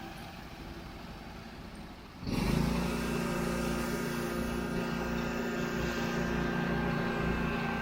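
Engine running at a steady speed. About two seconds in, the sound switches abruptly to a louder, steady engine hum that holds to the end.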